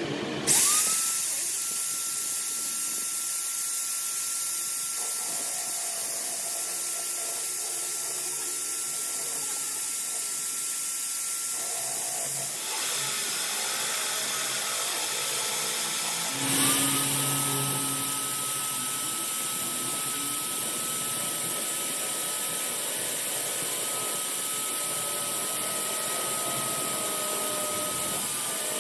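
A high-speed electric power tool spins up quickly and runs with a steady high whine and hiss. It stops about twelve seconds in, then starts again about four seconds later and runs until near the end.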